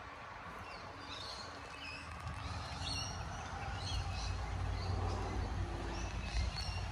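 Small birds chirping in many short, high calls, over a low rumble that grows from about halfway through.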